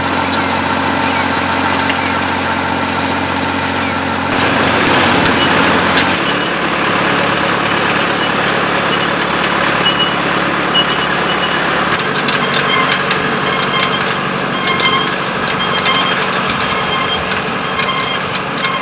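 Farm tractor engine running steadily under load, its note shifting a few times.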